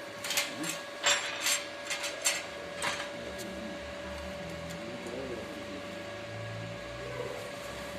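Metal tool knocking and scraping slag off a stick-weld bead, cleaning it between passes. About seven sharp clinks come in the first three seconds, followed by a low steady hum.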